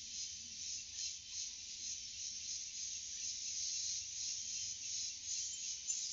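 Forest insects, such as crickets or cicadas, calling in a dense high-pitched chorus that pulses steadily.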